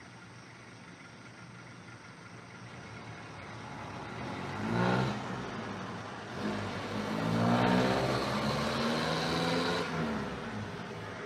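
Motor engines passing by: one rises briefly in pitch about five seconds in, then another builds, climbs in pitch and fades out near the end.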